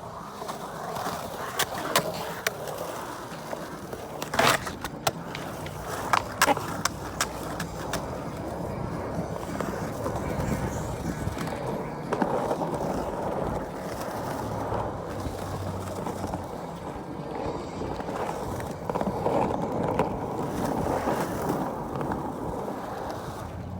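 Skateboard wheels rolling over the park surface, with several sharp clacks of the board in the first seven seconds.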